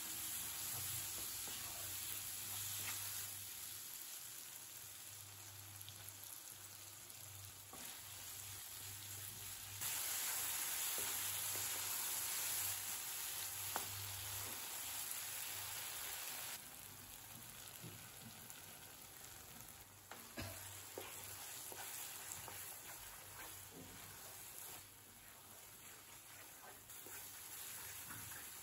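Onion-tomato masala sizzling in oil in a non-stick kadai, stirred with a wooden spatula that scrapes and taps the pan. The sizzle steps up louder about ten seconds in and drops back about sixteen seconds in.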